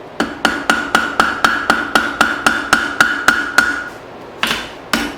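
Forging hammer striking hot file steel on an anvil, knocking a corner in. It goes as a quick, even run of about five blows a second with a steady ring under them, a short pause about four seconds in, then a few more blows.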